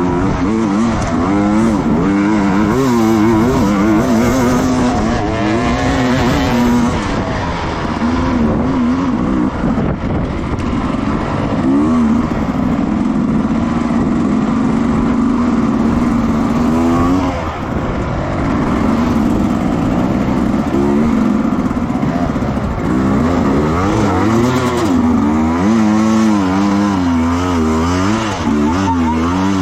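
Racing motorcycle engine at full race pace, its revs climbing and dropping through gear changes and corners, with two longer stretches held at steady high revs a little before and after the middle.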